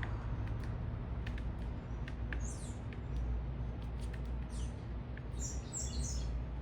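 Small birds giving short high chirps, a few single notes and then a quick cluster near the end, with scattered sharp ticks, over a steady low city traffic rumble.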